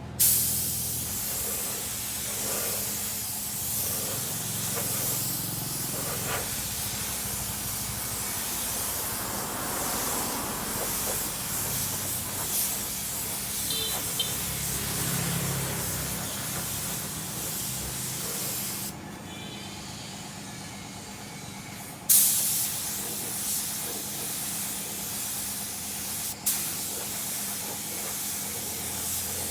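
Paint spray gun hissing in long continuous passes. It starts sharply, stops for about three seconds two-thirds of the way through, then starts again just as abruptly.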